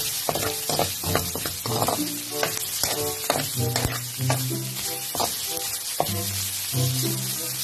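Diced meat sizzling as it fries in a metal pan, stirred with a spatula that scrapes and clicks against the pan, with background music playing over it.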